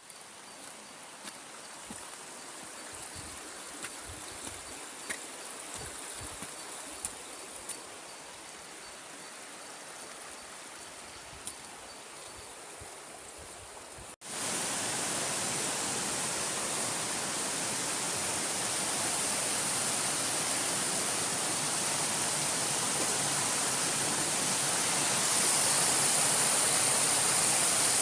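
Waterfall water rushing. It is a softer, steady rush with a few faint clicks, then an abrupt cut about halfway through to a much louder, fuller rush, which swells a little more near the end.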